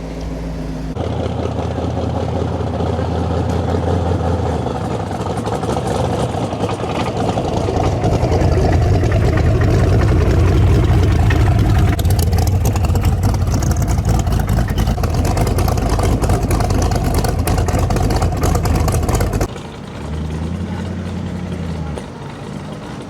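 Car engines running as a car drives in, the sound building up over several seconds to a loud, rough run before cutting off abruptly; a quieter engine idles briefly after the cut.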